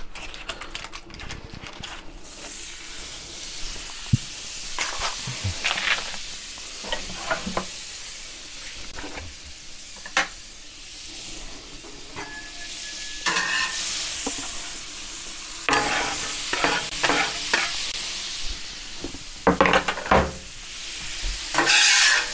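Butter and sliced red onions sizzling on the hot steel plate of a Pit Boss Ultimate gas plancha, with a metal spatula scraping and tapping the plate. The sizzle and scraping grow louder and busier near the end as the onions are stirred.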